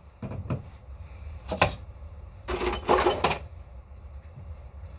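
Knocks and a short rattling clatter of household items being moved and set down on a kitchen counter, the busiest clatter about halfway through.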